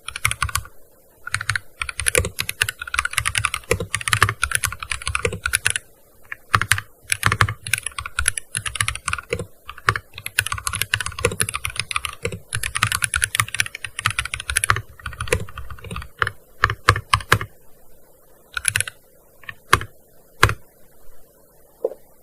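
Fast typing on a gaming keyboard: quick bursts of key clicks with short pauses between them, thinning to a few single keystrokes near the end.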